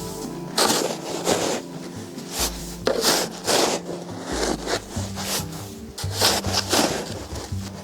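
Footsteps crunching through snow, an irregular crunch roughly every half second to second, over soft background music with held notes.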